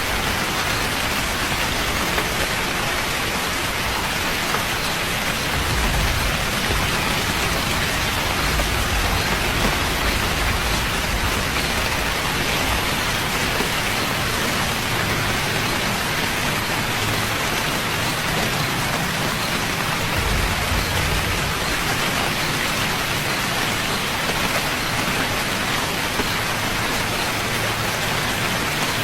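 Steady rainfall, a dense even hiss of drops on surfaces, with a faint low rumble swelling twice, about six seconds in and again about twenty seconds in.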